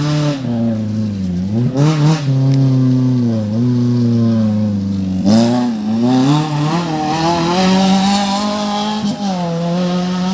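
Off-road race car engine revving hard, its pitch dipping and climbing as the throttle is worked, with a sharp drop and quick rise about five seconds in.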